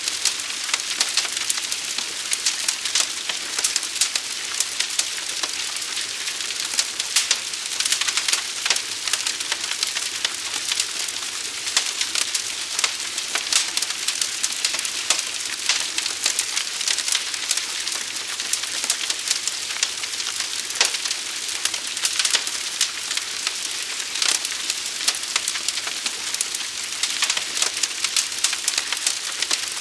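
A large fire burning, crackling steadily: dense, irregular pops and snaps over a constant hiss.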